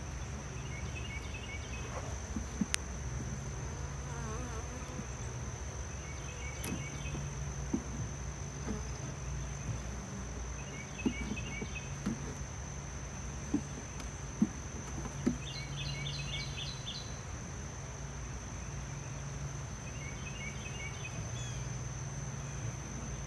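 Honeybees humming around an open hive, over a steady high insect trill and a short pulsed chirp that repeats about every five seconds. A few light knocks and clicks come through.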